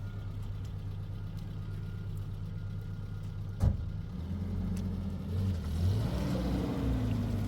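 A motor vehicle engine running steadily, with a single sharp knock a little over three seconds in. The engine then picks up, its pitch rising and wavering.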